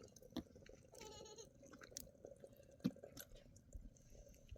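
A single short, quavering bleat from a distant lamb or kid about a second in, with a few faint knocks and clicks around it over quiet open-air background.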